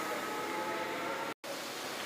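Steady background hiss and hum with a couple of faint steady tones, broken by a split-second total dropout about 1.4 s in, where the recording is cut.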